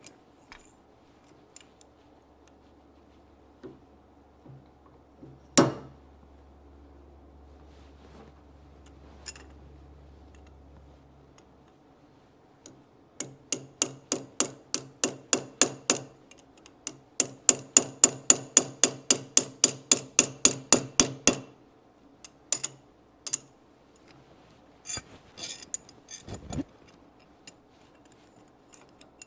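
A hammer driving a metal rod into a metal tool. One sharp knock, then two quick runs of blows at about four a second, each with a metallic ring, and a few lighter taps near the end.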